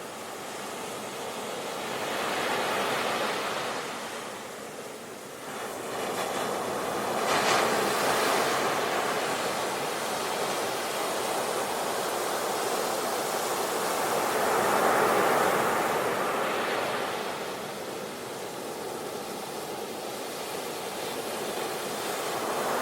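Sea waves breaking on the shore: the surf swells and falls back in several slow surges, with a sharper crash about seven seconds in.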